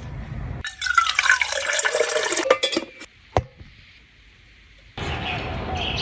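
Liquid pouring or running for about two seconds, its pitch sliding downward, followed by a single light clink about three and a half seconds in.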